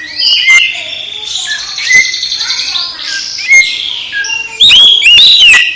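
Oriental magpie-robin (kacer) singing a varied song: clear whistled notes and a rapid buzzy trill, then loud, fast notes sweeping up and down near the end.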